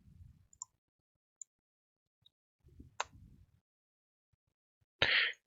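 A few faint, separate computer keyboard clicks over quiet room tone, the sharpest about three seconds in.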